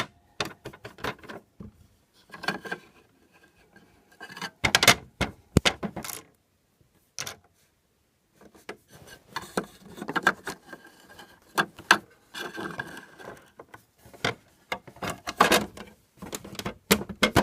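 Small toy kitchen items being handled and set down during a clean-up, giving a run of irregular clicks and clatters with short pauses.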